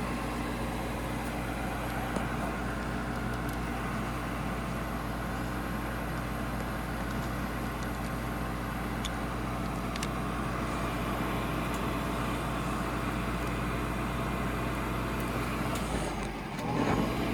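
Gas furnace running, its draft inducer (flue) motor humming steadily with a constant rush of air. The pressure switch is not closing on this draft, which the technician puts down to either too little negative pressure from the inducer or a bad switch.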